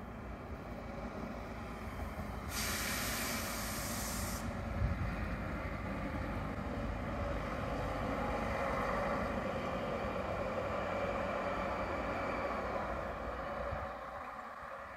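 Vogtlandbahn diesel railcar running into the station, a steady rumble and rush of wheels on the rails that builds and eases near the end. A sharp hiss of air lasts about two seconds, a few seconds in.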